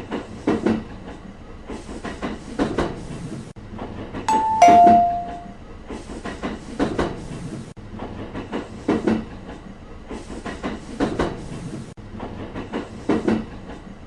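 Train wheels clacking over rail joints as the cars pass, a short cluster of clacks about every two seconds. About four seconds in, a louder two-note falling chime, ding-dong.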